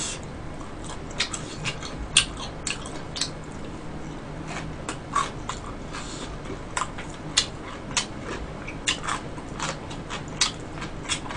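Close-miked chewing of stir-fried sundae and gopchang (Korean blood sausage and pork intestines): irregular wet mouth clicks and smacks, one or two a second, over a low steady hum.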